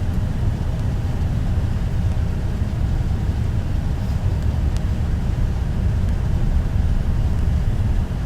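Steady low rumble inside a moving car's cabin, driving through a blizzard on snowy roads: engine, tyres and strong wind against the car, with a couple of faint clicks.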